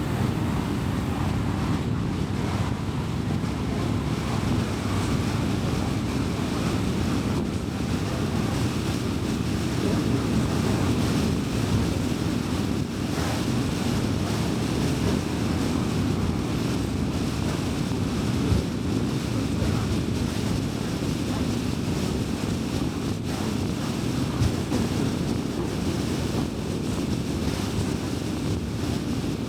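A car driving steadily along a city road: an even low rumble of tyres on the road surface and the engine. A couple of brief knocks come from bumps partway through.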